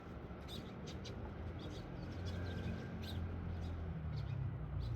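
Eurasian tree sparrows chirping: a scattering of short, high chirps over a steady low rumble.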